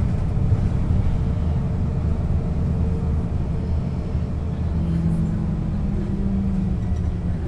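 Setra S 315 UL bus's diesel engine and ZF gearbox running while the bus is under way, a steady low rumble. About five seconds in, a whine comes in and slowly rises in pitch.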